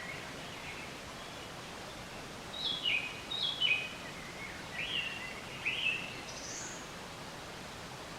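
A songbird singing a short phrase of clear whistled notes over a steady background hiss: two falling notes, then two rising notes, then one high thin note near the end.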